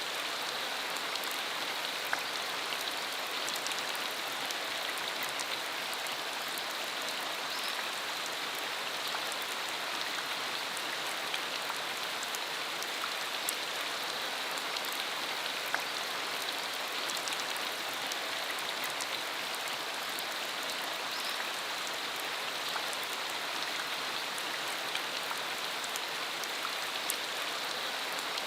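Steady rain falling, a continuous even hiss with scattered individual drop impacts standing out.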